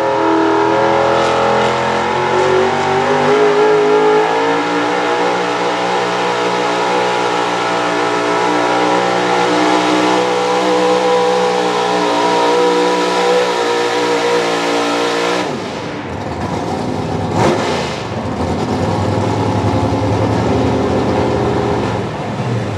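Pro stock 4x4 pulling truck engine running at high revs under load on the sled, its pitch climbing over the first few seconds and then holding high. About fifteen seconds in it cuts off suddenly as the throttle is lifted, gives one quick rev, and drops to a lower rumble.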